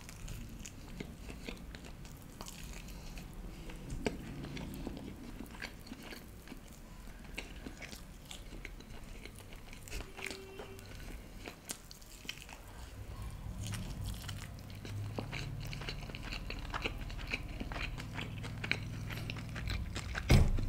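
Close-up sounds of a person biting and chewing a tandoori chicken leg, with soft crunches and many small scattered mouth clicks.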